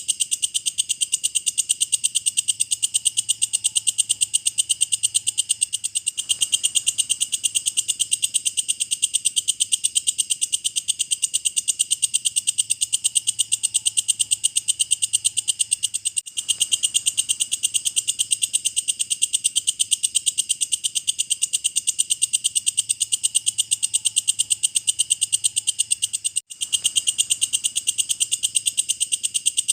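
Walang kecek (belalang kecek), an Indonesian singing insect, calling in a fast, even train of high-pitched pulses, several a second, broken twice by a brief gap about ten seconds apart.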